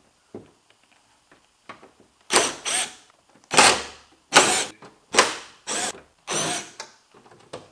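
Power drill running in about seven short bursts, starting a couple of seconds in, backing out the 10 mm screws that hold a car's rear spoiler on.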